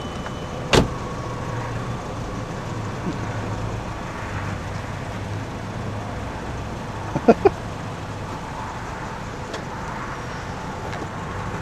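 A car door shuts with one sharp thunk about a second in, and then the VW Jetta's engine idles steadily. Two short pitched sounds come about seven seconds in.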